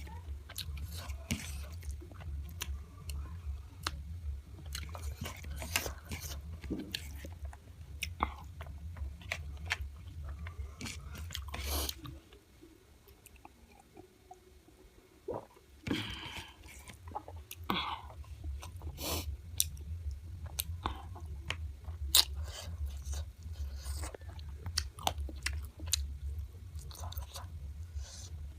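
Close-miked chewing and biting of chicken, a run of irregular sharp, wet clicks. A steady low hum runs underneath and drops out for a few seconds around the middle.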